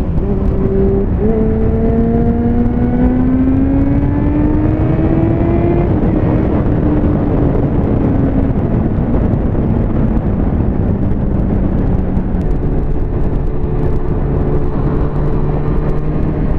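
Motorcycle engine under way with heavy wind and road noise. Its pitch climbs steadily for about five seconds as it accelerates, then settles lower and drops again a few seconds before the end.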